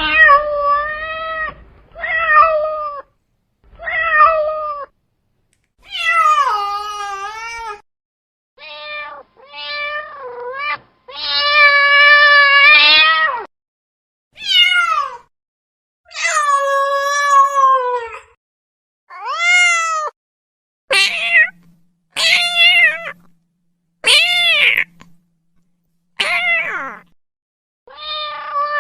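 A domestic cat meowing over and over: about fifteen separate meows, each bending up and down in pitch, cut apart by short gaps of silence. A longer, drawn-out yowl comes about eleven seconds in.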